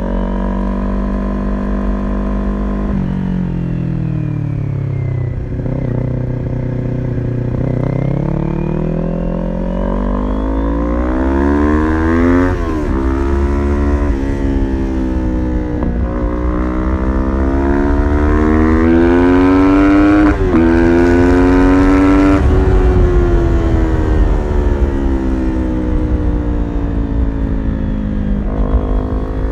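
Kawasaki Ninja 400's parallel-twin engine, breathing through an aftermarket full exhaust system, running under a rider who is working the throttle. It slows at first, then pulls up through the revs with several quick upshifts in the middle. It peaks about three quarters of the way through, then falls off as the throttle is closed.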